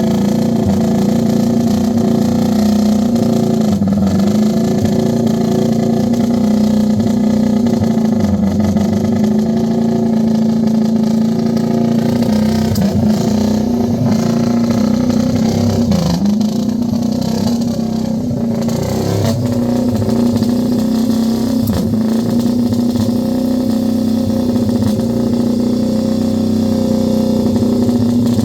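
Arter Matchless G50 racing motorcycle's single-cylinder four-stroke engine running loud and steady, its pitch dipping briefly a few times as the throttle is worked.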